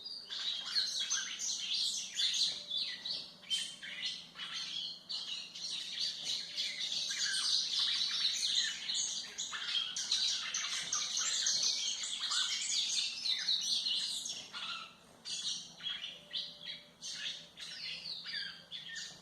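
Golinha (white-throated seedeater) singing a fast, continuous, twittering song of rapid chirps and short trills. It grows quieter in the last few seconds.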